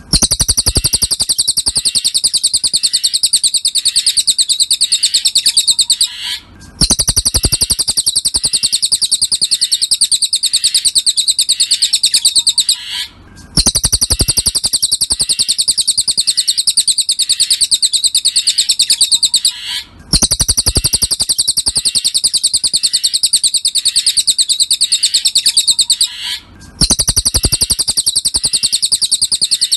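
Cililin bird song: a very fast, high, unbroken trill in stretches of about six and a half seconds, each cut by a brief break. It repeats as a looped masteran recording used to teach songbirds.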